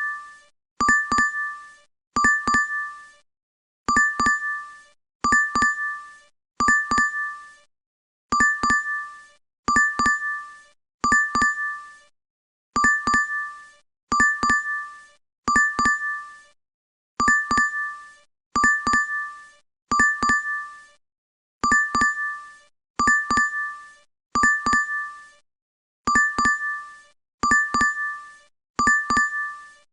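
DoorDash app notification chime, looped: a quick double ding in two bright tones that dies away fast. It repeats about every second and a half, in sets of three with a slightly longer pause between sets.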